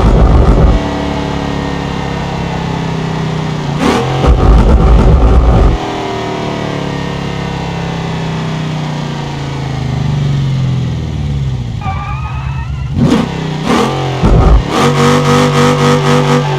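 V8 engine being revved. A blip about four seconds in winds slowly back down to idle, then comes a run of quick revs near the end.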